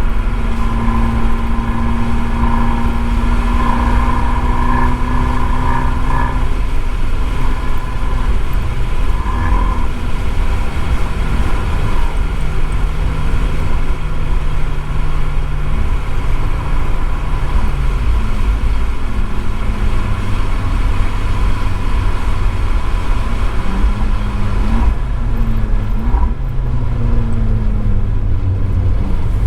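Abarth 595 esseesse's turbocharged four-cylinder engine through an Akrapovič exhaust, heard from a microphone in the trunk while driving on a wet circuit. The engine note holds steady, drops in pitch a couple of times, and climbs again near the end. A constant hiss of tyre and road noise runs underneath.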